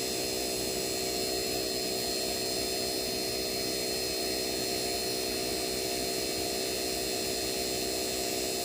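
Hercules vacuum pump motor running with a steady, even hum, pulling a vacuum on a heat pump's refrigerant lines during evacuation.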